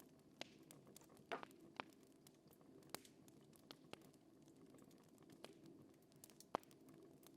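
Fire crackling faintly: sparse, irregular sharp pops over a steady low rumble.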